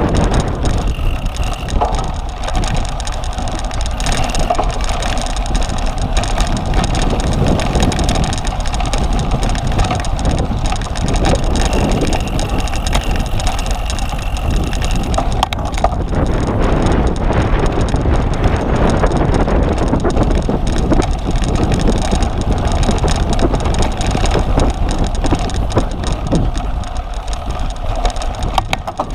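Cyclocross bike ridden hard over rough ground: steady wind buffeting on the microphone, with tyre rumble and the rattle of the bike running underneath.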